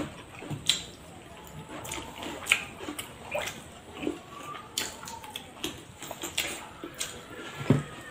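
People chewing and eating rice and curry with their hands: irregular wet smacking and clicking mouth sounds, several a second.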